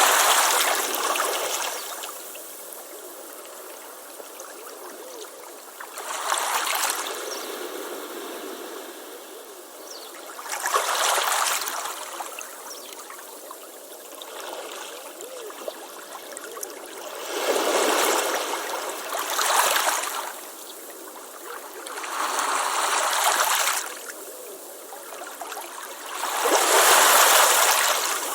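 Ocean waves breaking and washing up a beach: seven surges of surf a few seconds apart, with a softer hiss of water between them and no low rumble.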